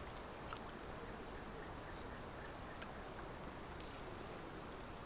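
Faint, steady background hiss with two light clicks, one about half a second in and one near three seconds.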